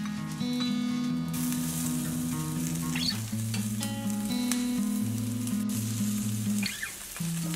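Food sizzling as it fries in a pan, the hiss rising about a second in, with background music playing steadily underneath.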